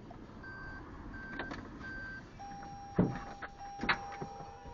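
Car's warning chime beeping in an even on-off pattern, which changes about two and a half seconds in to a continuous tone. Two loud thumps come about three and four seconds in.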